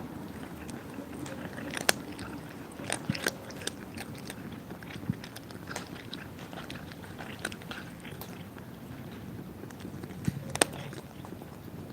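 Cats eating, chewing their food with irregular sharp crunches.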